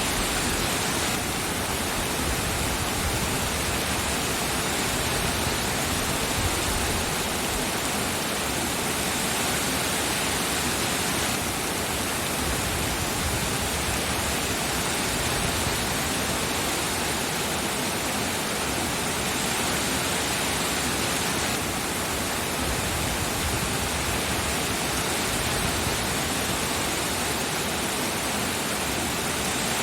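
Steady heavy rain, an even hiss that does not let up.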